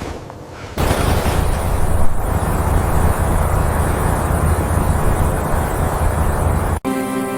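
Strong blizzard wind blowing, coming in suddenly about a second in as a loud, steady rushing noise with a heavy low rumble. It cuts off sharply near the end, and steady music tones begin.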